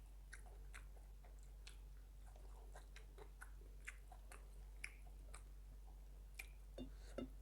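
Faint chewing of a rice meal, with small irregular wet mouth clicks and smacks.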